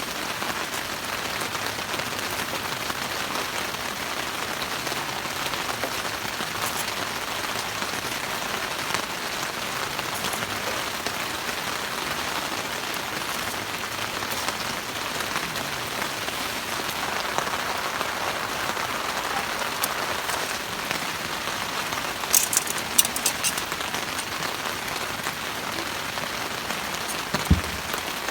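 Steady rain falling, an even hiss of drops. About two-thirds of the way through come a few sharp clicks, and near the end a single low thump.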